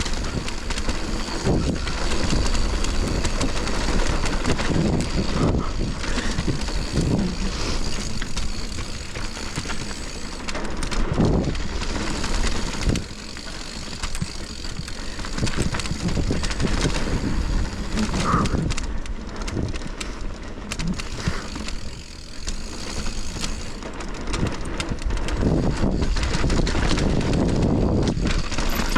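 Mountain bike rolling down a dirt trail: tyres running over dirt, with the chain and frame rattling over bumps and wind buffeting the microphone. The level swells and dips as the ride goes on.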